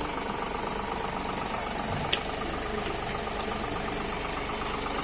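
Diesel engine idling steadily, with one sharp click about two seconds in.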